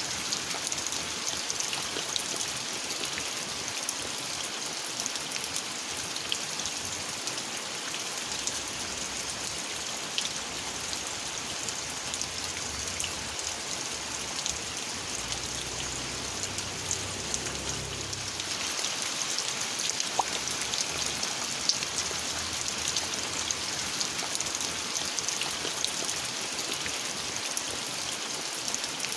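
Steady rain falling, with scattered individual drops ticking through the hiss. A faint low rumble swells and fades in the middle.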